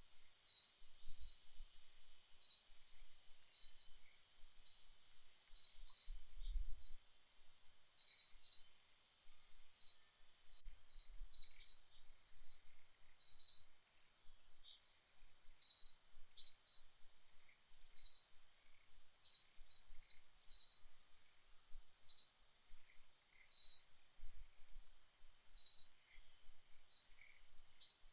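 A bird chirping repeatedly: short, high chirps, often in pairs or quick runs, over a faint steady high hiss.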